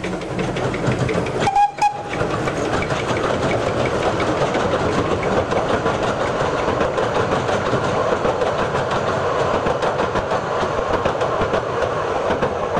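Narrow-gauge railway coaches rolling over a bridge: a steady rumble with rapid clickety-clack from the wheels over the rail joints. A brief high tone sounds near two seconds in.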